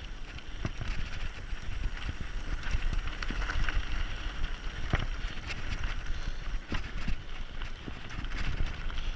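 Mountain bike rolling down a dirt forest trail: tyres crunching over dirt and stones, with irregular sharp rattles and knocks from the bike over bumps, over a steady rumble of wind on the microphone.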